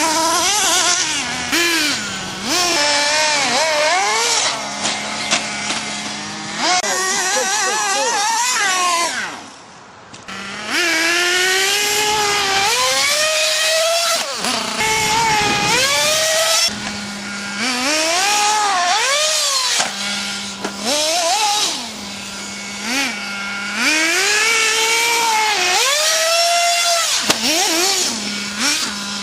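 Small nitro RC car engines revving hard over and over, the high buzzing pitch climbing and dropping with each burst of throttle, settling to a steady idle tone between runs.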